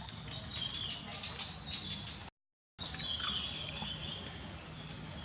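Birds chirping in short, high calls that overlap one another. The sound cuts out completely for about half a second in the middle.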